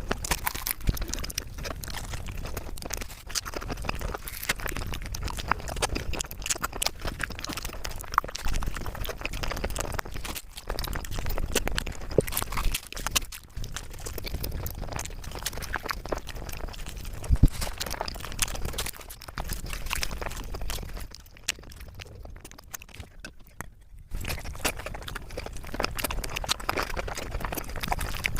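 Close-miked eating sounds: chewing and crunching food, a dense run of sharp crunchy clicks and smacks, easing off briefly about three-quarters of the way through.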